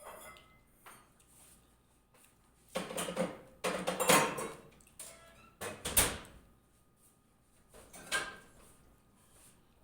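Close-miked eating sounds: biting and chewing raw eggplant, in three loud bursts a couple of seconds apart.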